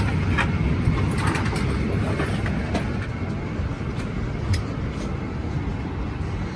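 Steady low rumble of a parked airliner's cabin air and ground machinery while boarding, with a few scattered light clicks and knocks.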